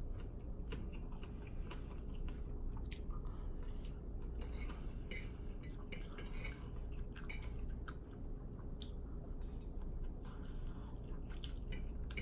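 Close-up eating sounds: chewing and mouth smacks on a pork chop, with cutlery clicking against a plate at irregular moments, over a steady low hum.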